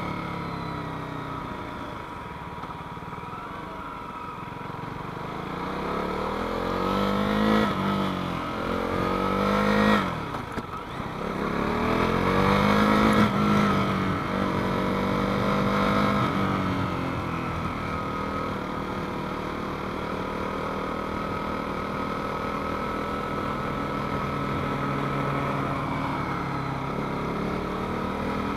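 KTM 390 Duke's single-cylinder engine under way: it picks up speed with rising pitch, shifts up about ten seconds in, pulls again, then settles into a steady, lower run.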